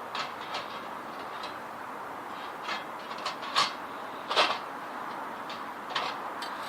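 Scattered light clicks and clatters of things being handled, about seven at irregular intervals with the loudest a little past the middle, over a steady background hiss.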